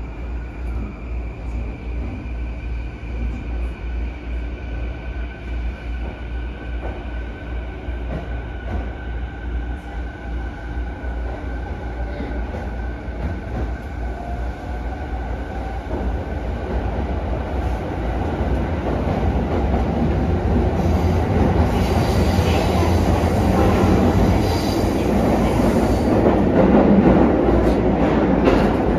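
Running noise inside a JR East E217 series electric commuter car as it pulls out and picks up speed, with wheel and motor noise. The noise grows louder over the second half as the train runs into the tunnel.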